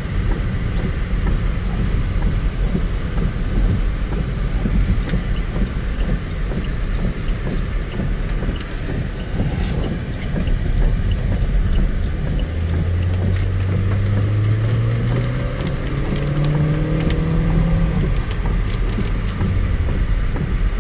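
Road and wind noise inside a moving Saab 9-3 SportCombi. About two-thirds of the way through, its turbocharged 2.0-litre four-cylinder engine pulls under acceleration, its note rising for several seconds before dropping away.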